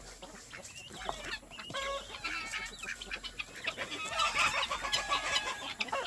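A flock of chickens clucking and chirping in many short overlapping calls, busiest from about four seconds in.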